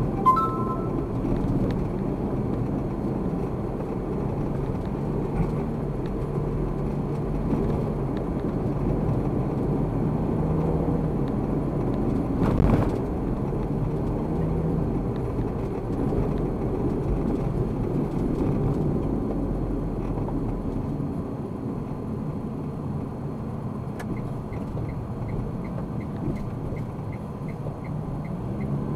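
Car interior sound heard through a dashcam: steady engine and road rumble while driving in traffic, with one brief knock partway through. The low rumble eases off past the two-thirds mark, and near the end a faint regular ticking of about two a second starts.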